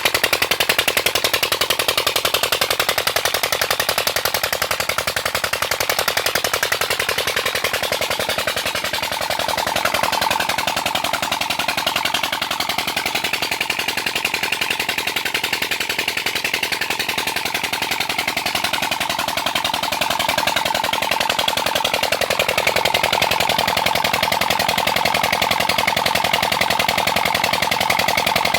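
Old black diesel engine of a tubewell running steadily, its firing strokes a fast, even beat.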